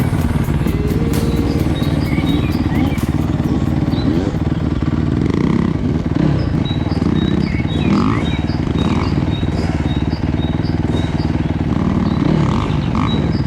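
Yamaha YZ125 two-stroke dirt bike engine running continuously, its pitch rising and falling as the throttle is worked.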